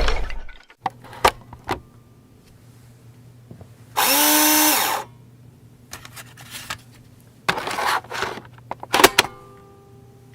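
A small motor spins up and winds down in a loud burst of about a second, four seconds in, over a low steady hum. Scattered clicks and knocks come before and after it.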